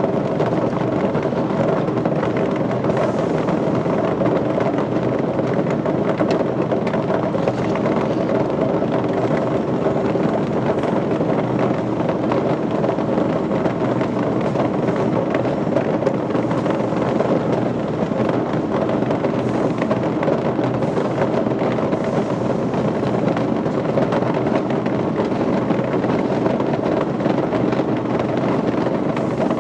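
Steady, even machinery noise with no distinct knocks or changes.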